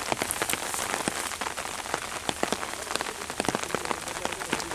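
Steady rain falling, with many sharp ticks of single raindrops hitting close by.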